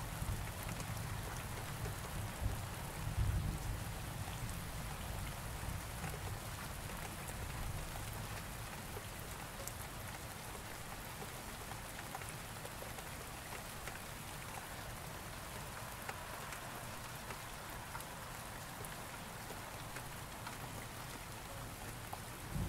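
Steady rain falling, an even hiss of drops, with a low rumble of thunder dying away over the first few seconds.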